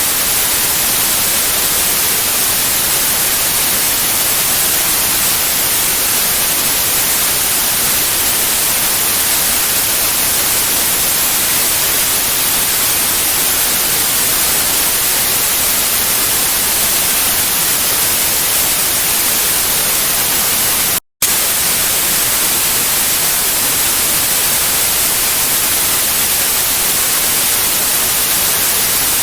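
Steady synthetic white noise, a bright even hiss strongest in the treble, played as a sleep aid for babies. It cuts out completely for a split second about two-thirds of the way through, then resumes unchanged.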